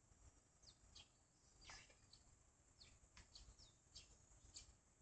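Eurasian tree sparrows chirping faintly: about a dozen short, high chirps scattered irregularly, each dropping quickly in pitch.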